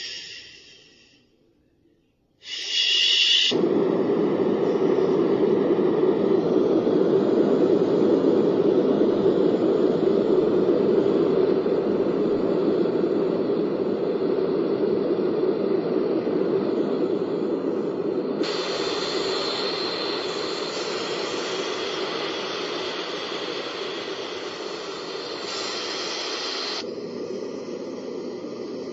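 Portable mini white-noise machine playing a steady rushing noise, switched between sound settings: the sound cuts out early on, a short burst follows, then a deep noise runs until it turns brighter about 18 seconds in and changes again near the end.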